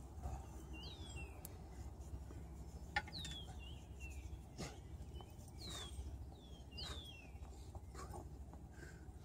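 A bird calling over and over in short, downward-sliding chirps, about one to two seconds apart, over a low steady rumble. A single sharp click about three seconds in.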